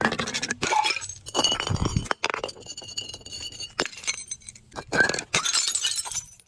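Glass being broken and crushed: a run of sudden crunching hits with the clink of shards, each followed by brief glassy ringing.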